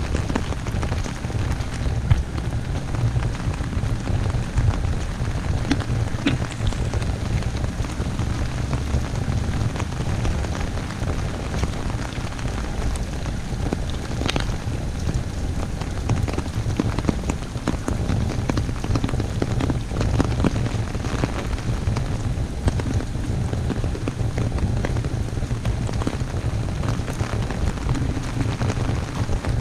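Heavy rain falling steadily on an umbrella overhead: a dense, even patter of drops over a strong low rumble.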